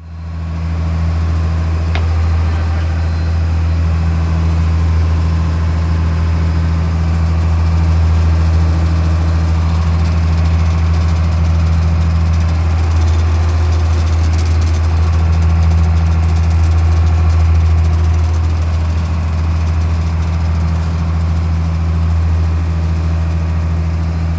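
An engine running steadily at constant speed, a low even drone with no change in pitch.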